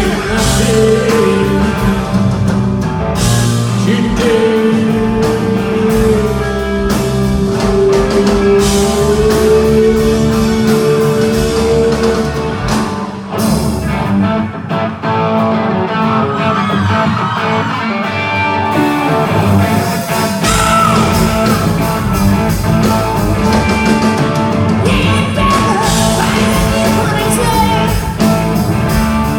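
Live rock band playing loud: electric guitar, bass and drums with a singer. A long held note wavers over the first twelve seconds or so, and past the middle the bass and kick drum drop out for a few seconds before the full band comes back in.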